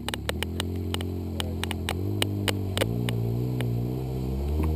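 Off-road vehicle engine running at low revs, its pitch wavering and rising a little, with a quick series of sharp clicks over the first three seconds.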